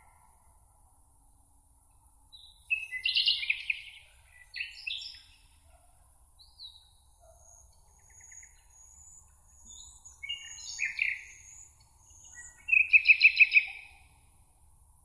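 Songbirds singing in a meadow: bursts of chirping song phrases with quiet gaps, one about three seconds in and a loud rapid trill near the end. A faint thin high note runs through the middle.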